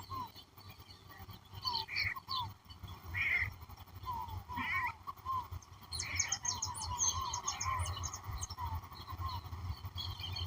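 A mixed chorus of wild birds calling. Short downward-sliding notes repeat throughout, several harsher rasping calls come in between, and a burst of high twittering starts about six seconds in, all over a steady low rumble.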